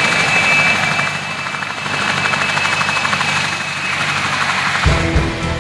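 Helicopter running, a steady rotor and engine noise with a thin high whine. Music comes in near the end.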